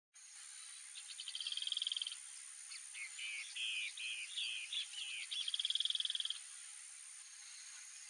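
A small bird singing: a rapid high trill, then a run of short falling slurred notes, then another rapid trill, over a steady high background hiss.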